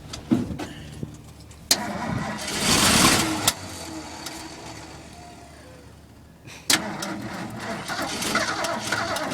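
Ford F-350 bucket truck's engine being cranked over in a hard cold start, in two attempts that begin suddenly about two seconds in and again about seven seconds in.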